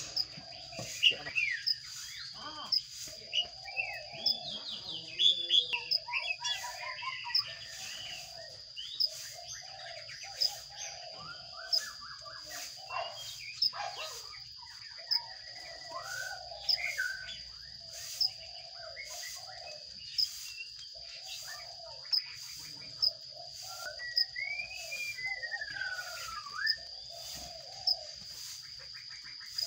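Sparrows chirping at a nest box, with a few sliding whistled calls near the end. A steady high-pitched whine with a faint tick about once a second runs underneath.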